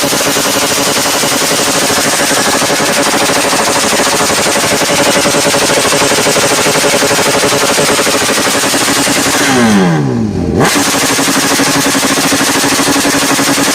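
Motorcycle engine revved and held at a steady high pitch, its exhaust popping rapidly like gunfire. About ten seconds in, the pitch falls sharply and the sound cuts out briefly, then the steady high revving comes back.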